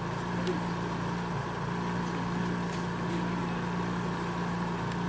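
A steady, unchanging mechanical drone with a low hum and a fainter higher tone.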